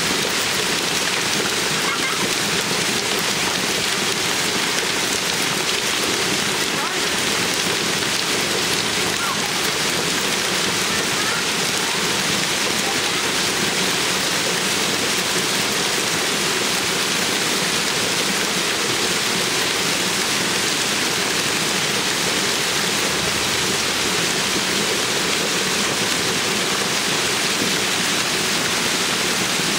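Heavy hail pelting down, a dense, steady clatter of countless impacts without a break.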